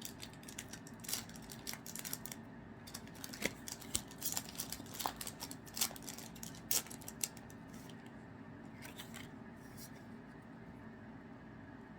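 MetaZoo trading cards and foil booster-pack wrappers being handled: a run of short, crisp clicks and rustles that thins out after about seven seconds.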